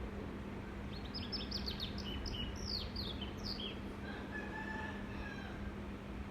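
Birds chirping in a quick run of short, high, falling notes, followed about four seconds in by a single drawn-out call, over a steady background hum.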